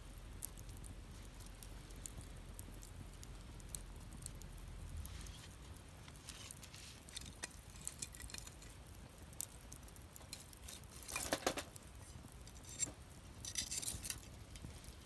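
Wood fire crackling with scattered sharp pops, and a louder flurry of crackling about eleven seconds in and another near the end.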